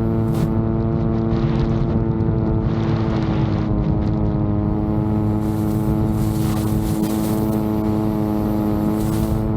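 Electric propellers of a VTOL drone humming at a steady, even pitch in flight. Gusty wind hiss swells over it in the second half.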